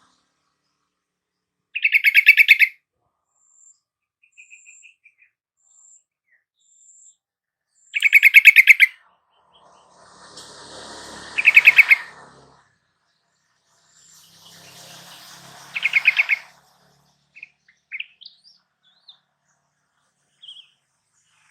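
Yellow-vented bulbul (trucukan) singing: four short, loud phrases of quickly repeated notes, each about a second long and several seconds apart, with a few faint short chirps near the end.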